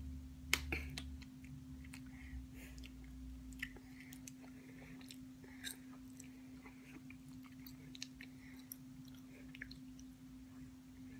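Faint chewing of a hard White Rabbit milk candy: scattered small wet mouth clicks and crunches. A steady low hum runs underneath.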